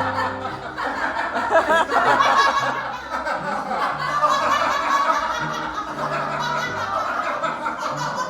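Several people laughing together, chuckling and snickering, over a soft keyboard accompaniment playing held low notes.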